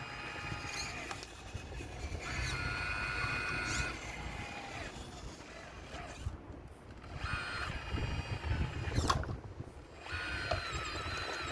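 RC model excavator's hydraulic pump and motors whining, the pitch shifting and the whine stopping and starting as the arm works, over a low rumble. A sharp knock comes about nine seconds in.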